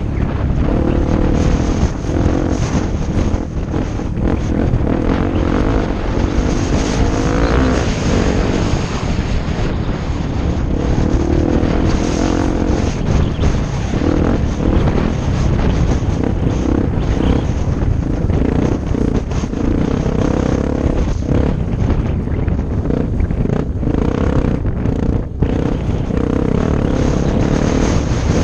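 Off-road motorcycle engine running while riding, its pitch rising and falling with the throttle, over a heavy low rumble of wind on the microphone.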